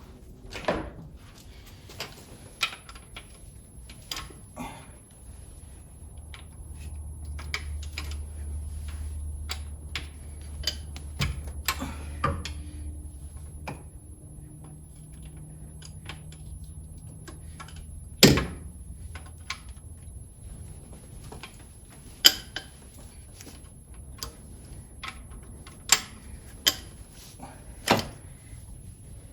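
Breaker bar, socket and extension working on the cylinder head bolts of a Mustang 3.8 V6, cracking them loose a quarter turn at a time. Scattered sharp metallic clicks and knocks, the loudest about 18 and 22 seconds in, over a faint low hum from about 6 to 14 seconds in.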